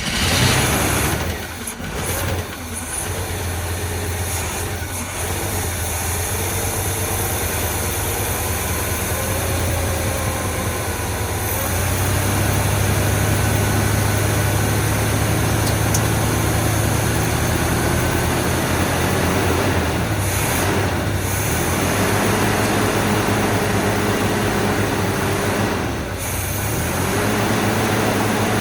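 1984 Chevy C20 truck's gasoline engine running after a long sit, fed by gas poured into the carburetor bowl. The engine speed shifts up and down and the sound dips briefly twice near the end.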